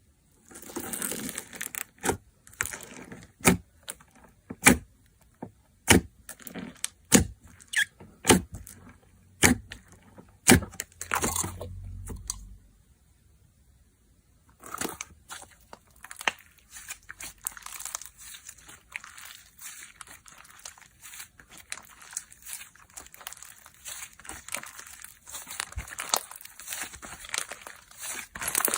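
Slime being played with by hand: a run of sharp pops and clicks through the first half, a short pause, then a continuous fine crackling for the rest.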